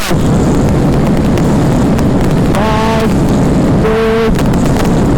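Motorcycle ridden flat out on a highway: engine and rushing wind noise on the microphone throughout, with two short vehicle horn blasts a little past the middle.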